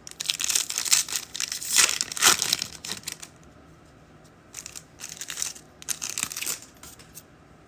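A trading card pack wrapper crinkling as it is torn open and handled. The crackle runs for about three seconds, stops briefly, then comes again for another two seconds or so.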